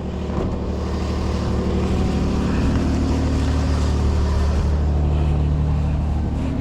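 Toyota Highlander's 3.3-litre V6 idling steadily while warming up in freezing weather, its low hum shifting slightly in pitch a couple of times.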